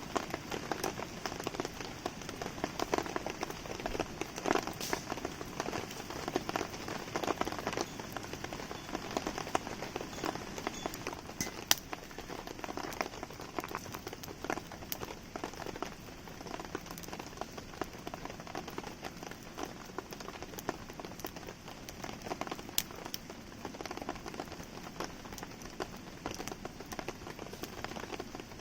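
Steady rain pattering, mixed with the crackle of a wood campfire burning in it; a few louder pops stand out, the sharpest about twelve seconds in and again near twenty-three seconds.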